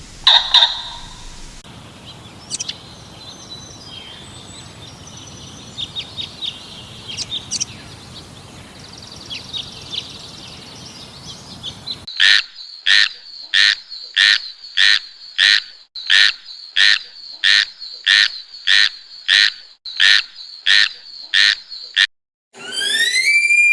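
An animal calling: a steady series of short pulsed calls, about two a second, for some ten seconds. Softer scattered chirps come before it, and arching whistled calls after it near the end.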